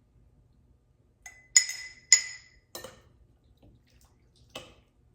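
A utensil clinking against glass canning jars: two sharp, ringing clinks about a second and a half in, with softer knocks after them and one more near the end.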